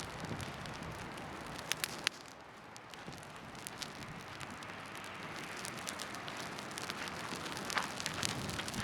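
Wood bonfire crackling: a steady hiss broken by sharp pops, two loud ones about two seconds in and more near the end.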